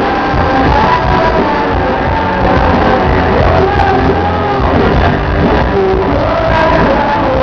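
Live band music with singing voices, loud and continuous, echoing in a large hall.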